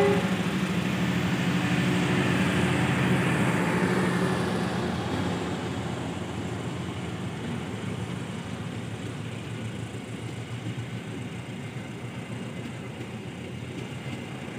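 Passenger coaches of a departing train rolling past on the rails. The diesel locomotive's low engine hum fades out over the first few seconds, leaving a steadier, quieter rolling of wheels on track.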